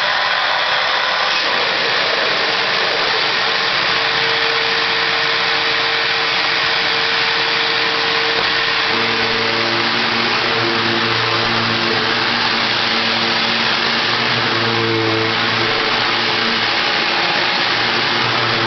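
Hoover WindTunnel Self-Propelled Ultra upright vacuum cleaner running, a loud steady rush of motor and airflow. About nine seconds in a lower hum with several steady tones joins in and shifts now and then.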